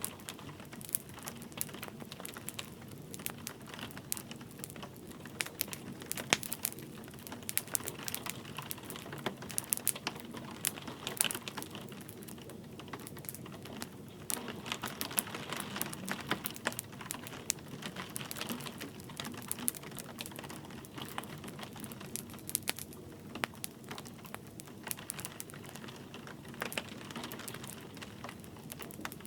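Wood fire crackling, with frequent irregular sharp pops and snaps, over a steady hiss of light rain.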